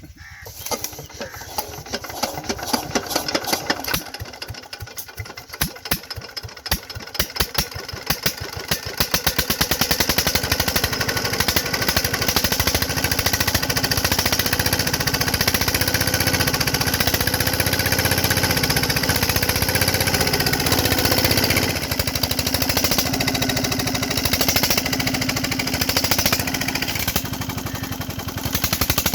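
Petter diesel engine starting: slow, separate firing knocks speed up over the first several seconds until it catches, then runs steadily with an even beat.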